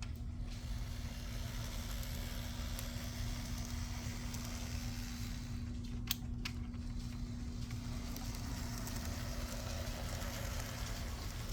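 Z scale AZL SD75M model diesel locomotive running on track: the steady hum of its tiny electric motor with the light rattle of wheels on rail. Two sharp clicks come about six seconds in.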